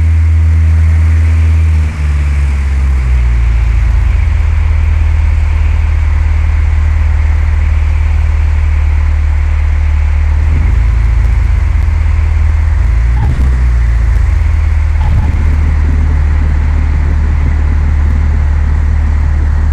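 A Cessna 172's piston engine running at low power. Its engine speed steps down about two to three seconds in, and it then runs steadily at a low, idle-like speed, with slight changes in speed later on.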